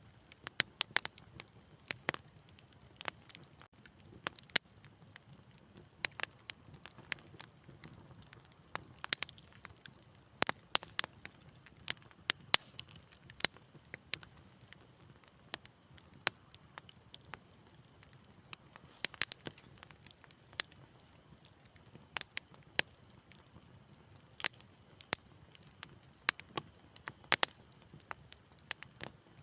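Wood fire crackling in a fireplace: irregular sharp pops and snaps, several a second at times, over a faint low rumble of the flames.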